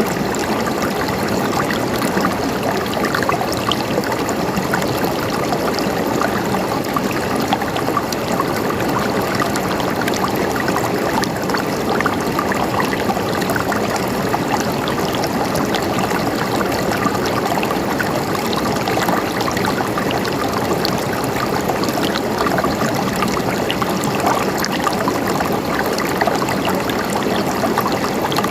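River water flowing steadily over rocks, an even rushing babble with small splashes and trickles throughout.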